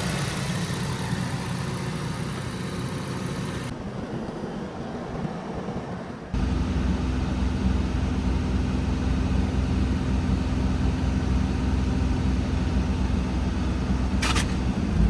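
Infiniti G35's VQ35DE 3.5-litre V6 idling with no exhaust fitted, warming up to bleed air from a freshly refilled cooling system. The sound jumps abruptly louder and deeper about six seconds in, and a brief sharp high click comes near the end.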